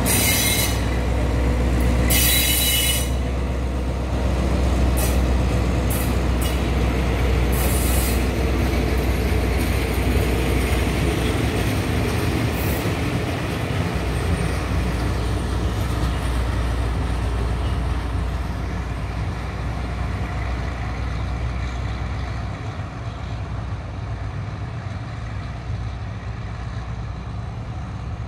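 Passenger coaches of a departing train rolling along the rails, a steady low rumble with several short high-pitched wheel squeals in the first eight seconds. The rumble fades as the train draws away.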